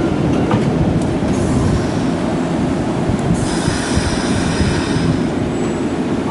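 Nankai 6000 series stainless-steel electric trains running through the station. Wheels clack over rail joints in the first second. From about three and a half seconds in to about five and a half, a high squeal sounds as the train at the platform brakes to a stop.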